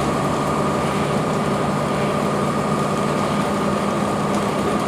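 Cummins ISC inline-six diesel engine of a 2002 Blue Bird CS transit bus running steadily, with a steady high whine over the engine note.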